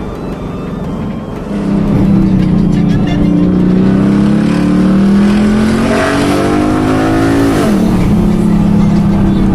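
Ford Mustang GT's V8 with an aftermarket performance exhaust accelerating hard. The engine note climbs steadily for about six seconds, then drops sharply at an upshift and keeps pulling at a lower pitch.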